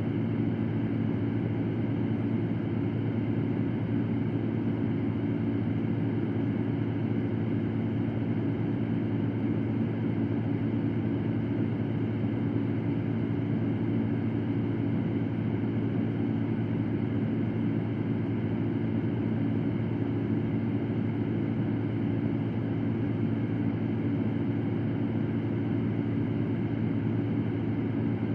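Electric fan running steadily: an even whooshing noise with a low hum, mostly in the low range, unchanging throughout.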